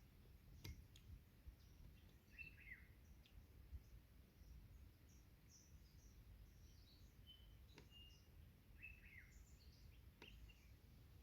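Faint forest birdsong: scattered short high chirps from several birds, with one phrase of quick descending notes heard twice, about two seconds in and again near the end. A low steady rumble of background noise and a few faint clicks sit underneath.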